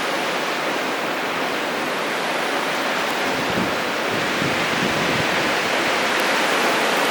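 Strong storm wind rushing through big swaying trees, a steady roar of noise that builds slightly toward the end. Around the middle there are a few low buffets of wind hitting the microphone.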